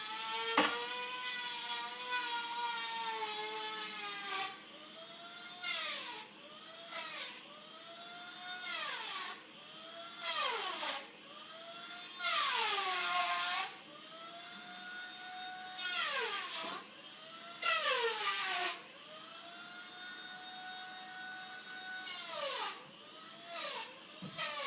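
An animal crying out over and over. It starts with one long call that sinks slowly in pitch, then gives a string of shorter calls that each rise and fall in pitch.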